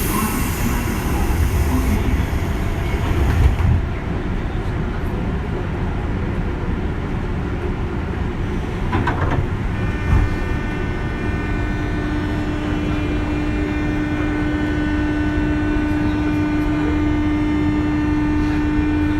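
Onboard running sound of a JR 201 series electric train: steady wheel and rail noise, with a hiss in the first few seconds and a steady electric hum from the traction equipment coming in about eleven seconds in and holding.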